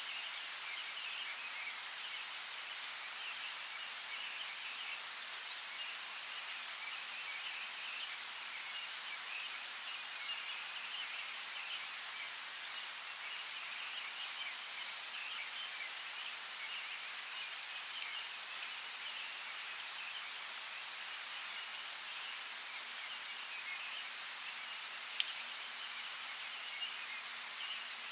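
Steady rain falling, with a few sharp drops ticking close by and distant birds chirping faintly under the hiss.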